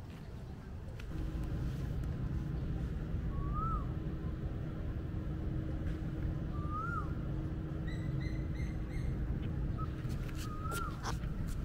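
A steady low rumble with a faint hum in it, like an engine running, starts about a second in. Over it a bird calls three times, a short whistle rising then falling, a few seconds apart, and a short run of high pips comes about two-thirds of the way through.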